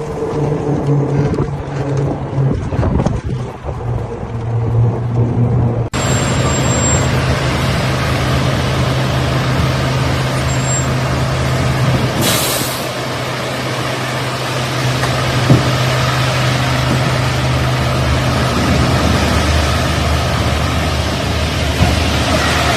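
Heavy truck engine running steadily, with a short hiss of air brakes releasing about twelve seconds in.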